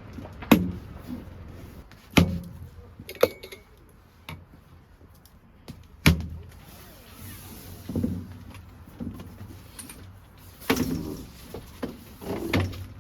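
Objects being handled: four sharp knocks and clanks about half a second, two, three and six seconds in, then softer rustling and clatter toward the end.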